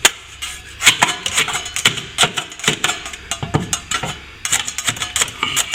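Hand tool scraping and chipping at cracked plaster to open up the crack, a quick irregular run of sharp scrapes and knocks.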